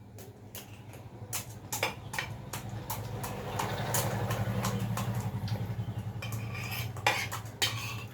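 A spoon clinking and scraping against a bowl, repeatedly, as food is stirred and mixed, with a denser run of scraping in the middle. A steady low hum runs underneath.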